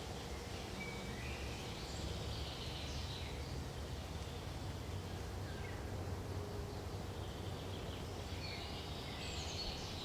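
Forest ambience: songbirds chirping in two short spells, about a second in and again near the end, over a steady low rumble of background noise.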